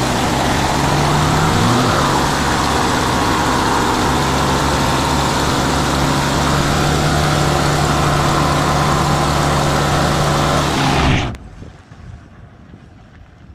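A motor running loudly and steadily with a low hum, cutting off abruptly about eleven seconds in.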